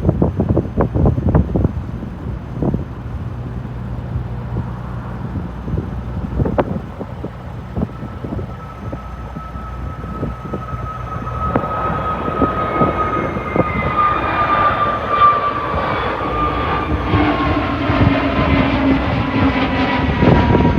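Airbus A321neo's CFM LEAP-1A turbofan engines at takeoff thrust on the takeoff roll: a low rumble joined from about halfway by a high fan whine that grows louder and slowly falls in pitch as the jet passes. Wind buffets the microphone in the first few seconds.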